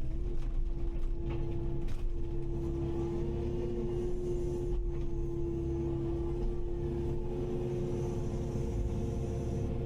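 Kubota KX080-5 excavator running under work: its diesel engine and hydraulics give a steady low rumble with a strong steady tone over it, and a few faint knocks.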